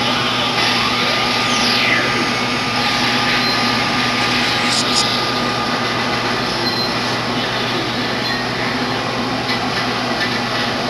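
Steady rushing noise from electronic and cooling equipment, with a constant hum and a thin whistle tone under it and a brief falling tone about one and a half seconds in.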